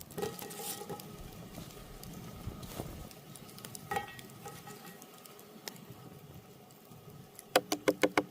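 Cooking-prep handling sounds: scattered light clicks and knocks of utensils and cookware, then a quick run of about six sharp, slightly ringing taps near the end.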